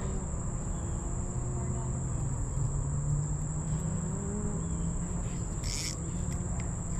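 Steady high-pitched insect chorus, like crickets, over a low steady hum, with a brief hiss about six seconds in.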